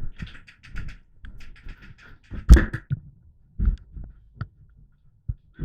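A quick run of light clicks, then a sharp knock and several dull thumps: movement and gear-knocking noise picked up by a helmet-mounted camera.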